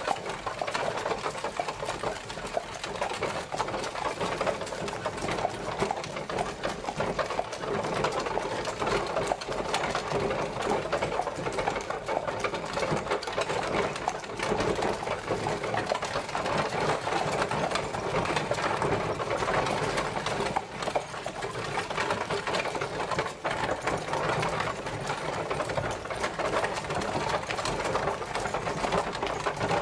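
Horse-drawn carriage travelling: a steady, dense clatter and rattle of the rolling carriage.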